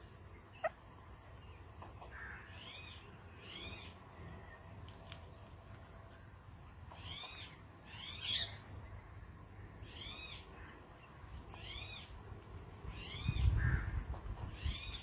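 Indian ringneck parakeet calling: short, arched, repeated calls, often in pairs, a second or two apart. A louder low rumble comes near the end.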